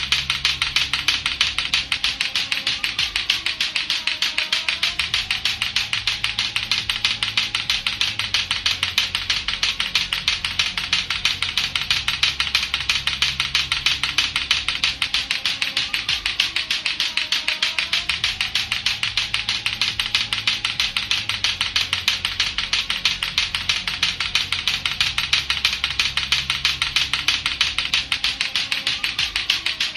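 Latto-latto clackers, two hard plastic balls on a string, knocking together in a fast steady rhythm of sharp clicks without a break. Looped background music with a low beat plays under the clicking.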